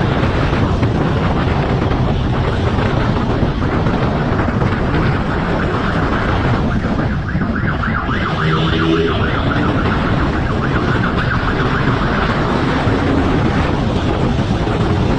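Motorcycle running at speed with loud, steady wind noise, and a siren sounding.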